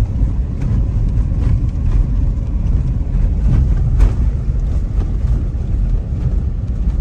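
Car on the move heard from inside the cabin: a steady low rumble of engine and road noise, with a brief knock about four seconds in.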